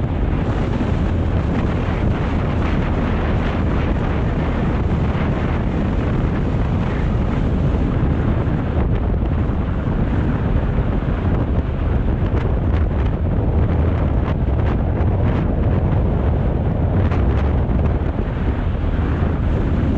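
Wind rushing and buffeting over the microphone of a moving BMW R 1250 GS motorcycle, with the low steady drone of its boxer-twin engine underneath.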